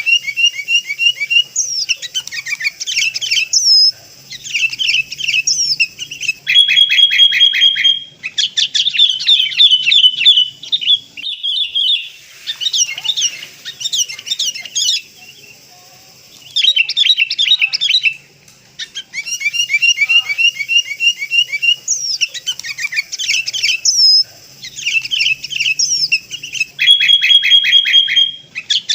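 Sooty-headed bulbul calls played as a lure: fast runs of bright, bubbly chirps in short phrases, broken by brief pauses. The same sequence of phrases comes round again about twenty seconds on.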